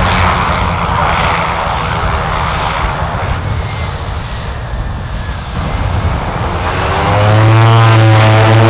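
Fixed-wing aircraft engine noise that eases off in the middle. About seven seconds in, a louder steady low drone with even tones above it comes in.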